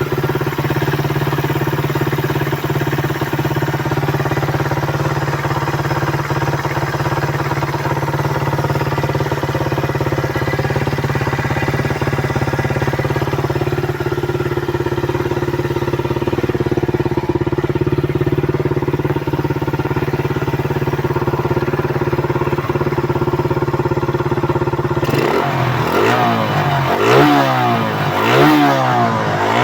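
Suzuki Raider 150's single-cylinder four-stroke engine idling steadily. About 25 seconds in, the throttle is blipped several times in quick succession, the engine note rising and falling with each rev.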